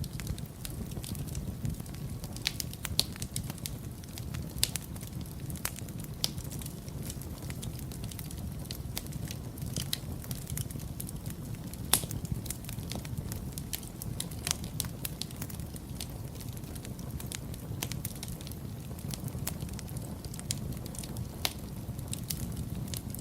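Wood fire burning in a fireplace: a steady low rumble of flames with irregular crackles and pops, the sharpest pop about halfway through.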